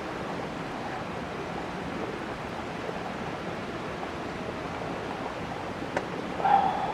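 A steady rushing noise, with a sharp click about six seconds in and a short louder pitched sound just after it.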